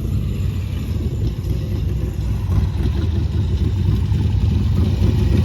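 A motorcycle engine running, a steady low rumble.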